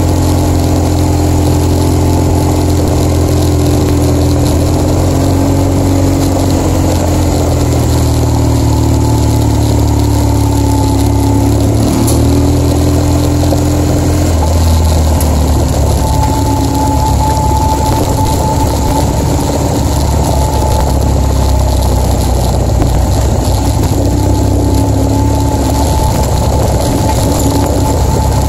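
BMW R1200GS boxer-twin engine running steadily as the motorcycle rides a dirt forest road, over a constant hiss of wind and road noise. The engine note dips and shifts about twelve to fourteen seconds in, and a steady higher whine joins past the halfway point.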